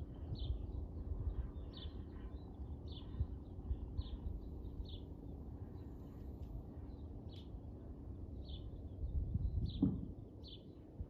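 A bird chirping over and over, short high calls about once a second, over a steady low outdoor rumble.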